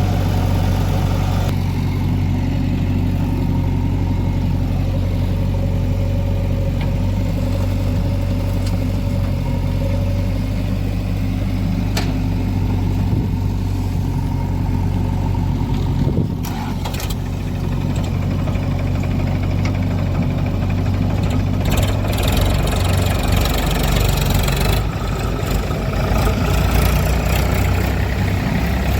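Diesel engine of a JCB 3DX backhoe loader working while loading mud, with the tractor nearby. It runs steadily for about the first half; after a short dip, the engine note rises and falls as it is worked harder toward the end.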